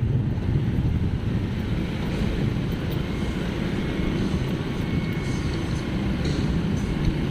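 Steady low engine and road rumble from a vehicle on the move, with wind buffeting the microphone.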